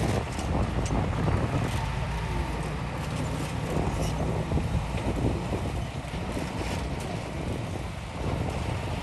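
Heavy diesel machinery running steadily, with scattered metallic clanks and knocks.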